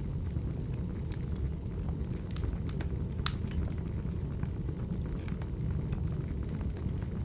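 Wood fire burning, with a steady low rumble and scattered sharp crackles and pops. The loudest pop comes about three seconds in.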